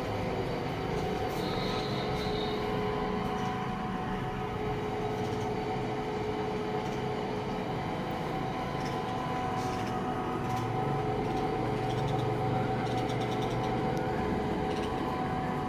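Steady machine hum carrying a few held tones, with no breaks or distinct events.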